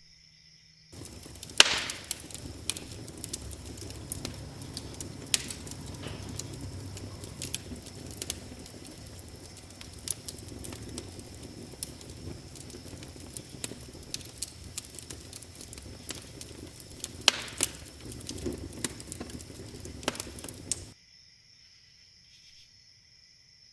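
Wood fire crackling, with many sharp pops and snaps over a low rustle, the loudest pops about a second and a half in and near the end; it starts abruptly about a second in and cuts off abruptly near the end. Crickets chirp steadily before and after it.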